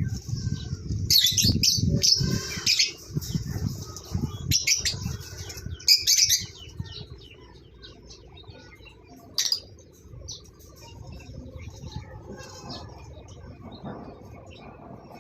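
Pet conure giving harsh, high-pitched chirps and squawks, loud in clusters over the first six seconds, then only scattered fainter chirps with one sharp call near the middle.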